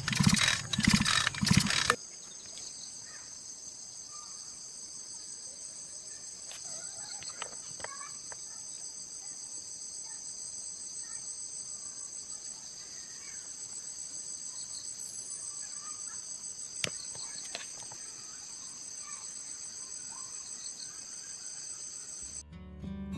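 A loud, pulsing machine sound cuts off suddenly about two seconds in. It gives way to a steady chorus of high-pitched insects, with crickets trilling and a few faint clicks. Acoustic guitar music starts near the end.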